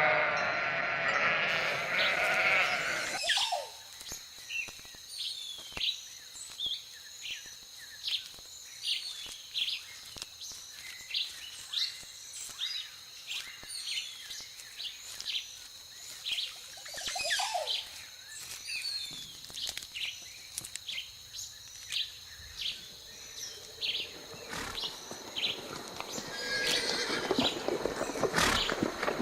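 Sheep bleating for the first few seconds, then a quieter stretch of many short high chirps over a steady high tone, with louder noise building near the end.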